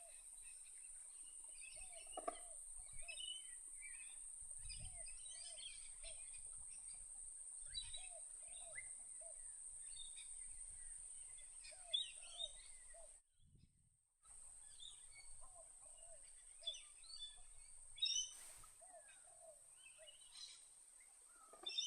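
Wetland birdsong: several birds chirping and calling, with many short repeated lower calls, over a steady high-pitched whine. The sound cuts out for about a second just past the middle.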